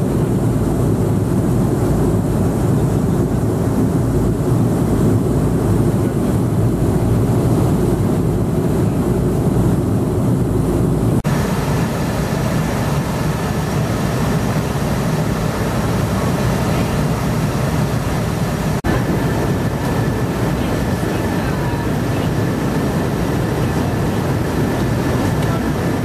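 Airliner cabin noise: a steady low rumble of the engines and airflow heard from inside the passenger cabin, which shifts abruptly a little before halfway through.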